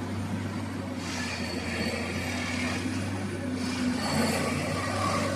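Plasser Unimat track-maintenance machine working on the rails: a steady engine drone with brief high metallic squeals from the rail machinery.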